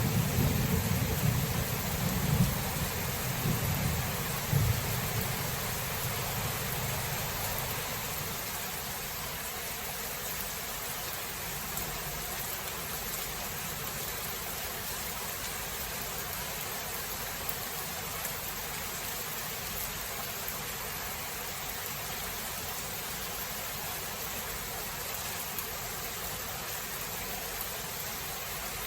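Steady rain falling, with a low roll of thunder rumbling and dying away over the first several seconds.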